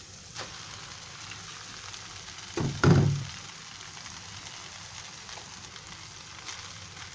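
Vegetables, chicken and egg sizzling steadily in a frying pan. About three seconds in, a pile of boiled noodles lands in the pan with a dull thump.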